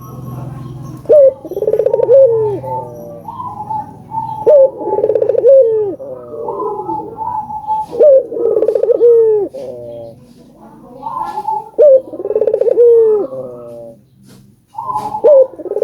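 Burung puter (domestic ringneck doves) cooing, a sharp opening note followed by a rolling coo, repeated about every three to four seconds.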